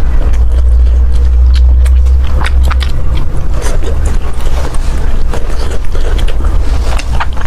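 Close-miked eating: chewing with many small wet mouth clicks and crackles, over a steady low rumble that is loudest in the first few seconds.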